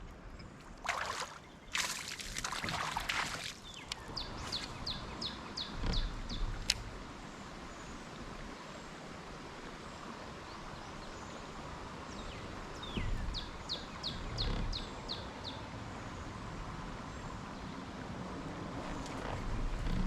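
A bird singing a quick run of about seven short, high, down-slurred notes, twice, over a steady outdoor background. About a second in there are a few seconds of rushing, splashy noise, and dull low knocks come now and then.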